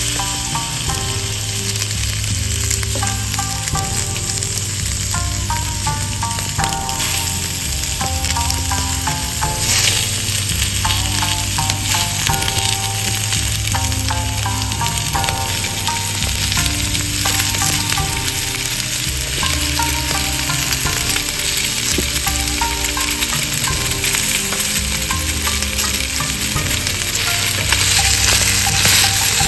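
Food frying in a pan with a steady sizzle, with background music playing over it.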